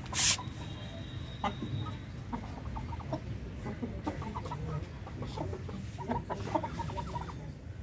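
Aseel chickens clucking in short, quick notes. There is a sharp knock just after the start.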